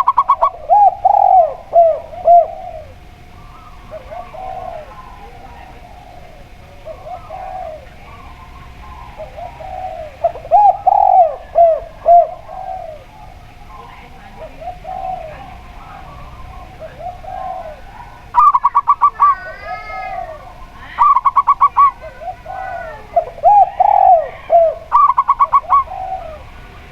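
Zebra dove and spotted dove cooing: repeated low, arching coos throughout. Three times in the last third there is a fast run of higher, clipped notes.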